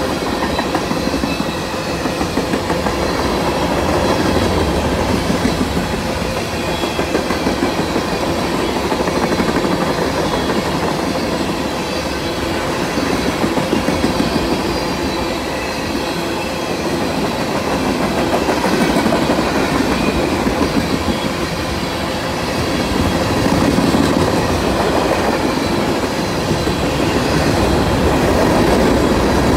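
Freight train cars (tank cars, then covered hoppers) rolling past close by: steel wheels clicking over rail joints in short regular clusters as each car's wheel sets cross, over a steady rumble and rattle.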